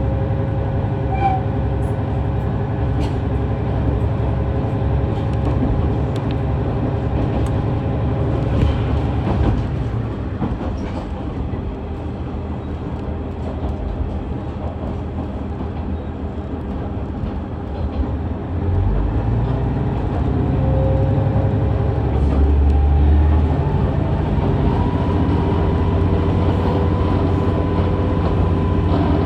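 KiHa 110-series diesel railcar under way, heard from on board: steady low running rumble of the engine and wheels with scattered clicks from the rails. It eases off from about ten seconds in, then swells again near eighteen seconds, with a faint whine rising in pitch over the last third.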